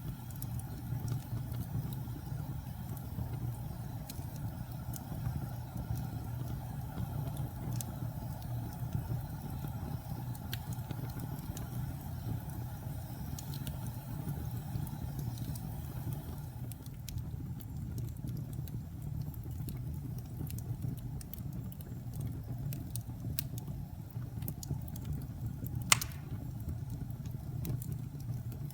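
Wood fire burning in a fireplace: a steady low rush from the flames with scattered small crackles, and one sharp pop near the end.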